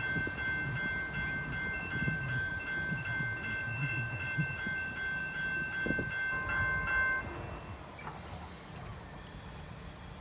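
Freight train cars rolling past with a low rumble, and a steady high-pitched squeal from the wheels that stops about seven seconds in. The rolling sound then fades.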